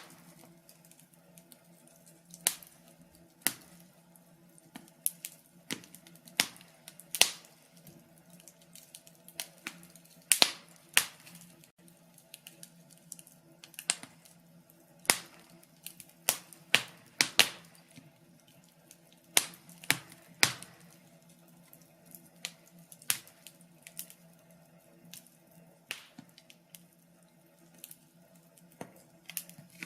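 Wood fire in a fireplace crackling: irregular sharp pops and snaps, roughly one or two a second, some much louder than others, over a faint steady hum.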